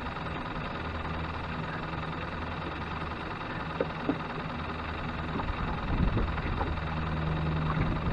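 Outboard boat engine running with a steady low drone, with a couple of sharp clicks about four seconds in and knocks and clatter in the second half.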